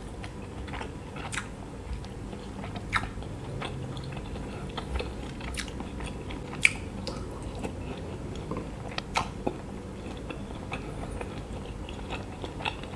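Close-miked chewing of fried Thai sausage on a skewer, with sharp mouth clicks every second or two.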